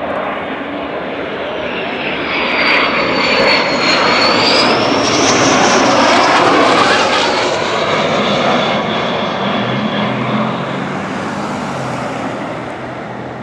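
An airplane flying past, its engine noise building to a peak in the middle and then easing off, with a high whine that dips and rises as it passes.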